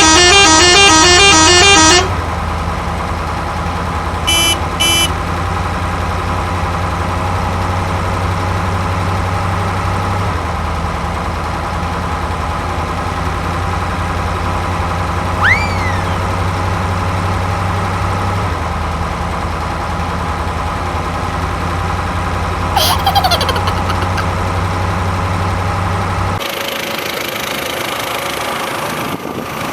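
Electronic sounds from a toy RC truck: a quick repeating horn melody for about two seconds, then a steady electronic engine hum with two short beeps about four seconds in. The hum cuts off near the end, leaving a hiss.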